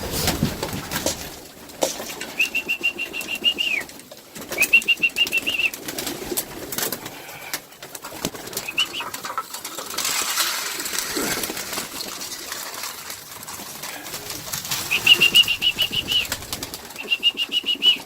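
Pigeons flapping their wings in a small loft, in short bursts of rapid wing beats several times. With each burst comes a high, trilling whistle-like sound.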